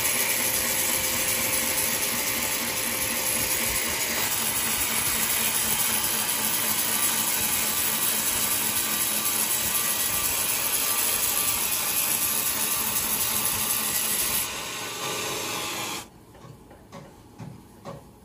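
Sawmill saw cutting through a coconut log, a loud steady grinding rush that eases a little near the end and then stops abruptly, leaving only a few faint knocks.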